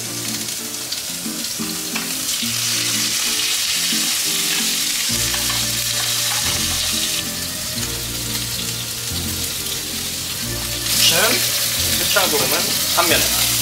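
Food frying in a hot pan, a steady sizzle that grows louder about two and a half seconds in and again near the end. Background music plays underneath.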